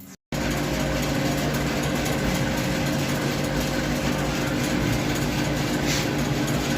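Steady mechanical hum of a running motor, with a few constant low tones over an even hiss.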